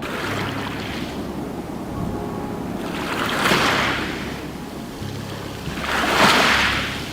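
Ocean waves surging and washing in, swelling three times about three seconds apart, the last swell the loudest.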